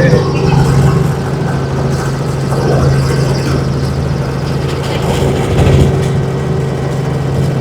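Helicopter engine and rotors running with a steady low drone.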